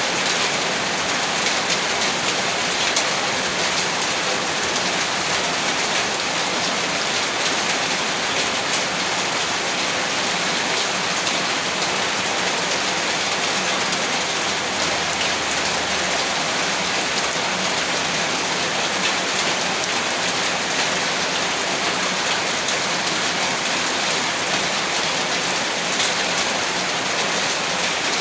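Heavy rain falling steadily, a dense, even hiss of countless drops on a surface.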